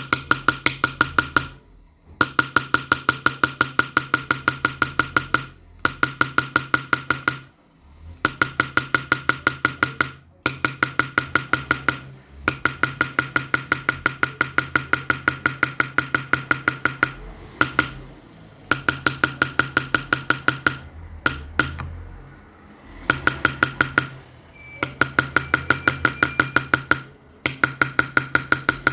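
Rapid, evenly spaced taps of a silversmith's small hammer on metal, about six a second, each with a bright ringing tone, in runs of a few seconds broken by short pauses.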